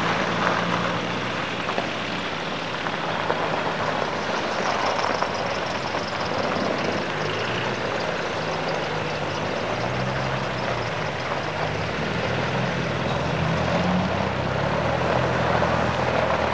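A convoy of Land Rovers, Defenders and a Discovery, driving slowly past one after another, their engines running steadily at low revs. The pitch of the engines shifts as each vehicle comes by.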